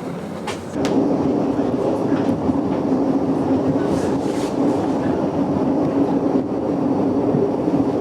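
GoldenPass Belle Époque train running, heard from inside the passenger carriage: a steady rumble with a low hum that grows louder about a second in, with a few faint clicks.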